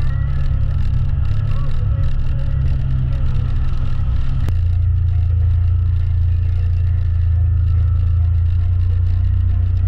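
Side-by-side UTV engine running as the machine drives along the trail, a loud low drone. About halfway through there is a sharp click, after which the drone turns steadier.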